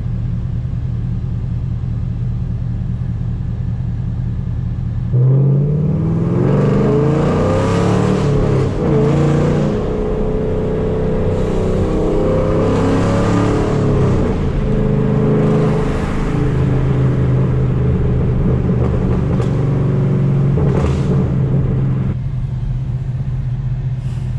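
5th-gen Camaro SS's LS3 V8 with long-tube headers and a loud exhaust, cruising at a steady drone, then pulled hard about five seconds in: the engine note jumps in loudness and climbs in pitch through several rises for over fifteen seconds before easing back to a steady cruise near the end.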